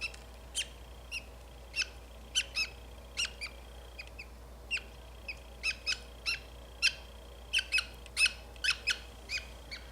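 Budgerigar chick giving short, sharp, high chirps, roughly two a second and irregular, protesting while it is held and handled for leg taping.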